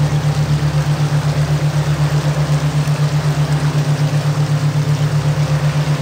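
A loud, low binaural-beat tone throbbing about eight times a second, over a steady hiss of running water.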